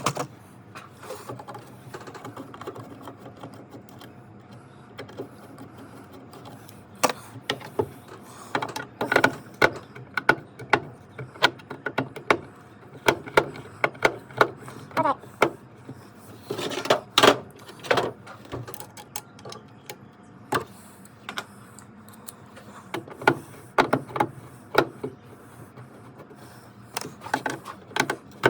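Irregular clicks, clinks and knocks of hand tools and metal parts as a seat is taken off an aluminum john boat, busiest through the middle with a loud cluster of knocks a little past halfway.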